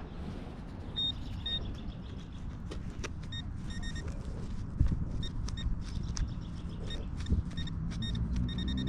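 Metal detector giving short, high beeps at one pitch over a nickel target, in scattered pairs and then a quick run near the end. There is steady traffic rumble underneath and a couple of dull thumps.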